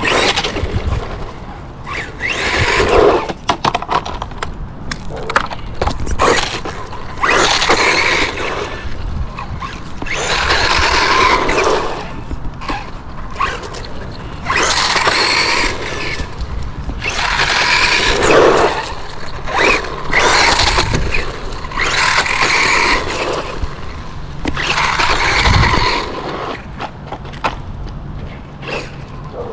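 Hosim HB17 1/16-scale brushless RC truck driving in about eight short runs, each a second or two long and a few seconds apart, its motor and drivetrain loud on each run.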